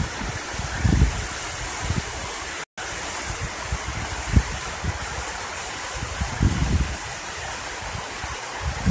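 Steady rush of a waterfall and stream water, with a few brief low thumps on the microphone. The sound cuts out for an instant about three seconds in.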